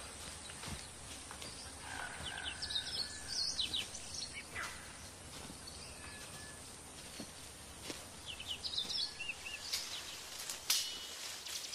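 Outdoor ambience with birds calling: two short runs of quick high chirps a few seconds apart, and a few brief whistled notes over a faint hiss. A few sharp clicks come near the end.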